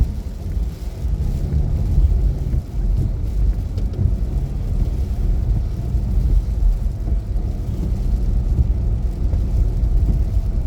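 Car climbing a hill on a snowy road: a steady low rumble of engine and tyres.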